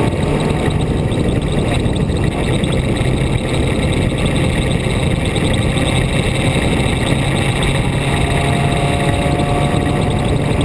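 Onboard sound of a vehicle driving along a mountain road: a steady engine hum under continuous road and wind noise.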